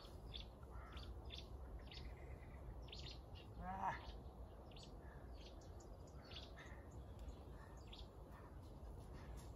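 Small birds chirping in short, scattered high notes over a steady low background rumble, with one louder, short rising call about four seconds in.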